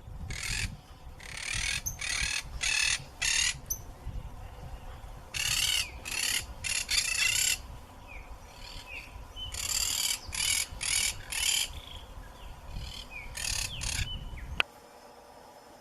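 Macaws squawking: harsh, raspy screeches in runs of three to five, with pauses of a couple of seconds between the runs. A low rumble underneath cuts off suddenly near the end.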